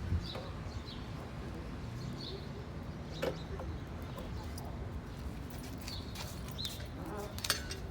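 Birds chirping now and then in short calls over a low steady hum, with a couple of sharp clicks from tools or parts, one about three seconds in and one near the end.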